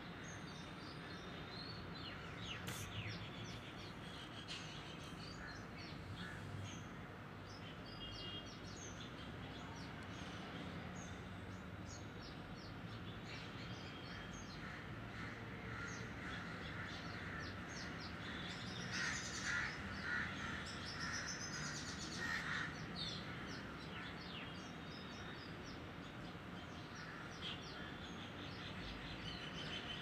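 Songbirds chirping from the trees, short calls scattered throughout over steady low background noise. Past the middle there is a louder run of quick repeated calls.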